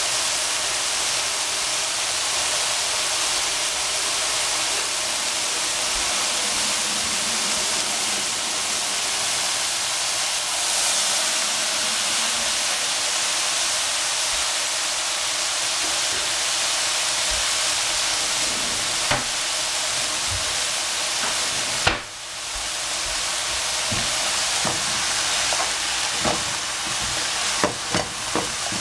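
Broccolini and capsicum sizzling steadily in a nonstick frying pan. A sharp knock comes about three-quarters of the way through, and near the end a wooden spatula clacks against the pan several times as the vegetables are tossed.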